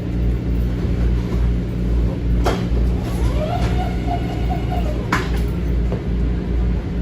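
Steady low rumble of an M7 electric commuter train standing at a station, with its doors working: a clunk about two and a half seconds in, a rising whine, then another clunk about five seconds in.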